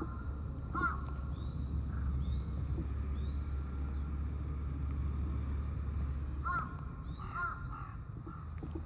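Birds calling: short arched calls about a second in and twice more near the end, over a run of high, falling chirps repeated every second or so, with a steady low rumble underneath.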